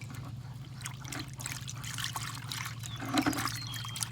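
A hand rubbing and working old grease around inside a rotary cutter wheel hub, making irregular wet squishing and smearing sounds. A steady low hum runs underneath.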